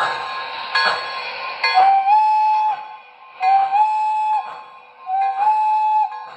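O scale model steam locomotive's sound-system whistle blown three times, each blast about a second long and stepping up slightly in pitch just after it starts, over background music.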